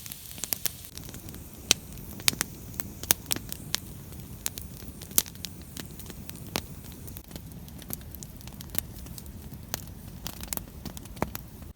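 Campfire burning, the wood crackling with irregular sharp pops over a low steady rush of flame; it stops suddenly at the end.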